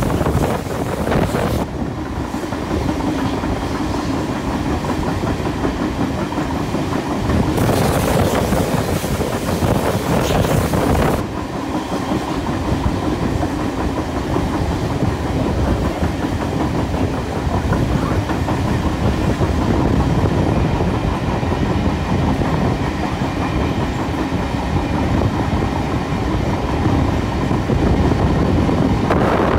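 Passenger train running at speed, its carriage wheels rumbling and clicking over the rail joints, heard from an open carriage window. Gusts of wind buffet the microphone near the start and again from about 8 to 11 seconds in.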